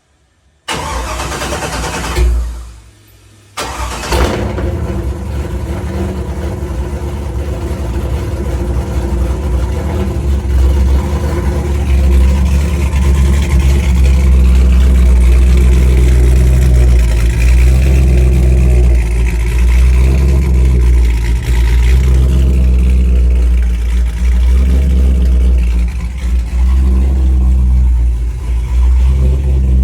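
Car engine with a 3-inch exhaust being cold started: it catches about a second in and blips loudly, drops away for about a second, then catches again. It settles into a loud, deep exhaust rumble that grows louder after about ten seconds.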